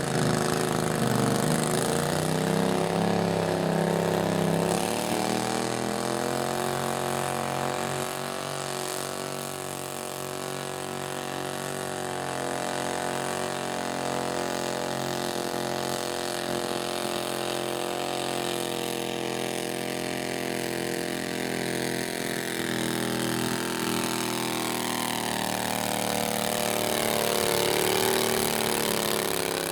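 Small garden tractor engine running steadily, its pitch dropping slightly about five seconds in and rising and growing louder again near the end.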